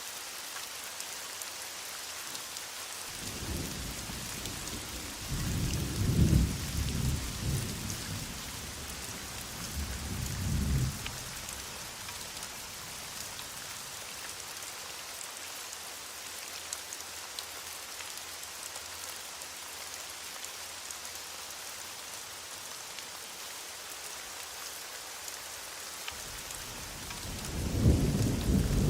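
Heavy rain falling steadily, with distant thunder rumbling twice: a long roll from about three seconds in to about eleven seconds, and another starting near the end.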